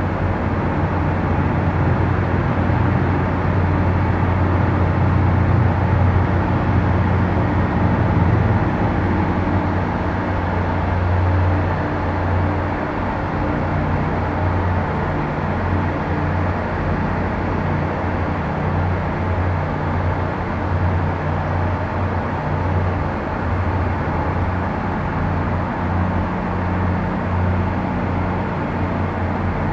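Watercraft engines running in a steady drone, with a low hum whose pitch shifts a few times.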